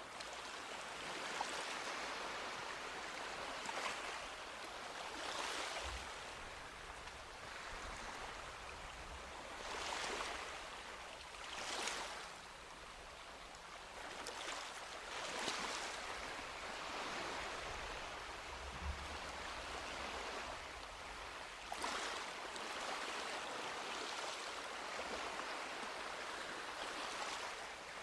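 Small sea waves breaking and washing up a beach: a continuous wash with a louder surge of surf every few seconds.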